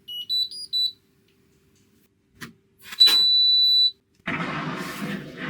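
Washing machine control panel beeping: a quick little tune of electronic beeps, then a click and a tap followed by one long beep of about a second. About four seconds in, a rough rushing noise with a low hum starts, swelling and fading.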